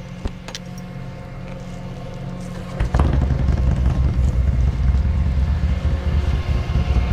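Tow truck engine running steadily, with a click just after the start; about three seconds in the engine note steps up suddenly to a louder, heavier rumble and holds there.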